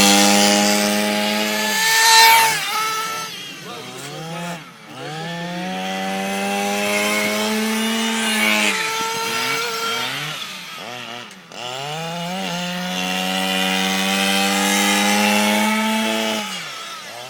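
Small nitro glow-fuel engine of an RC car running at full throttle: three long runs, each holding a high steady pitch for several seconds before the pitch falls away as it backs off.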